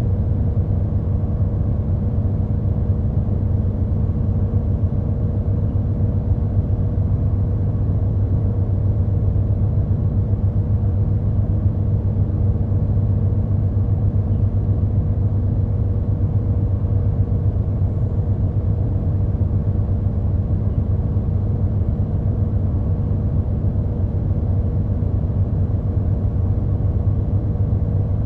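Route bus engine running steadily at an unchanging pitch, a low hum and rumble, heard from inside the passenger cabin.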